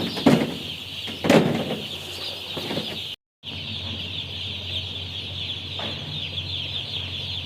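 A shed full of day-old broiler chicks peeping continuously, a dense high chorus of chirps. A few sharp knocks sound in the first second and a half, and the sound drops out for a moment about three seconds in.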